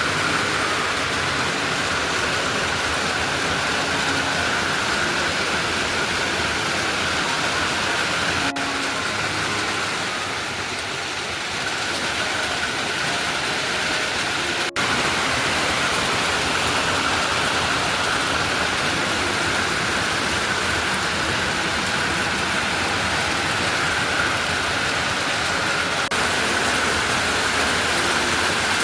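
Steady rushing water, an even hiss with no rhythm, broken by brief cuts about a third and halfway through.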